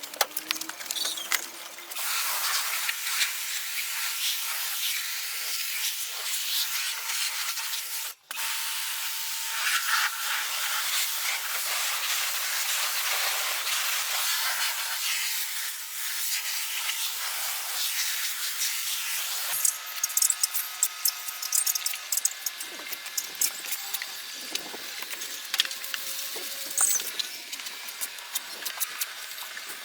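A steady spraying hiss, broken off briefly about a quarter of the way in, gives way about two-thirds of the way in to scattered clicks and rattles of workshop handling.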